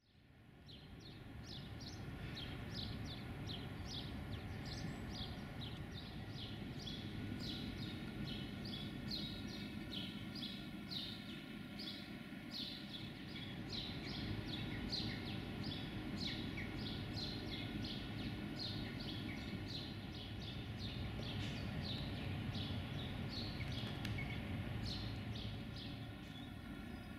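Small birds chirping over a steady low background rumble: many short, sharp chirps, several a second. The sound fades in over the first couple of seconds.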